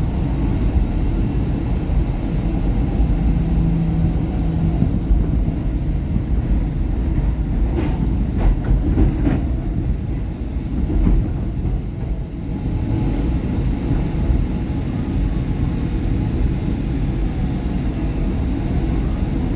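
SEPTA Market-Frankford Line M-4 train running and slowing to a stop at a station, a steady rumble of wheels and motors. A few sharp clicks come about eight to nine seconds in.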